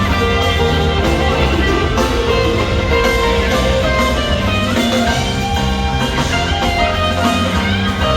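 Live rock band playing an instrumental passage, electric guitar to the fore over bass and drums, steady and loud.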